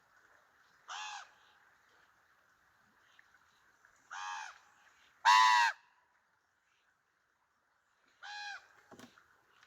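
Common ravens calling: four short pitched calls spread across a few seconds, the third much louder than the others. A single sharp click comes near the end.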